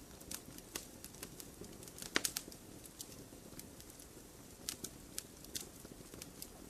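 Wood campfire crackling: irregular sharp pops and snaps over a low steady rush of the flames, with a quick cluster of louder pops about two seconds in.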